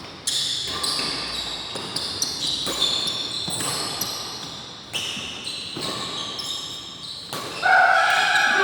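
Badminton play: a handful of sharp racket hits on the shuttlecock, irregularly spaced and echoing in a large hall, the loudest near the end.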